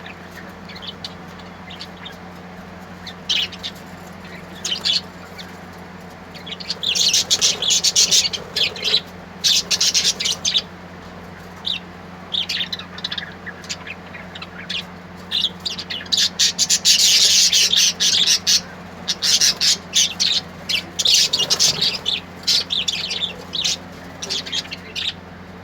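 Small birds chirping and twittering in quick high bursts, twice building into dense chattering flurries, over a steady faint low hum.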